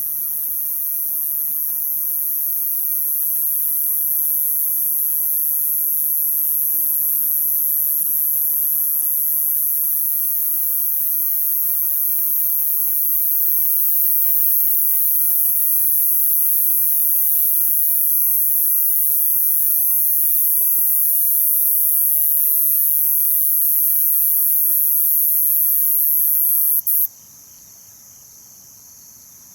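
Night-time insect chorus of crickets: a loud, steady, very high-pitched trill over a second, lower band of trilling, with a faint regular pulsed chirping coming in partway through. Near the end the highest, loudest trill cuts off abruptly, leaving a much quieter chorus.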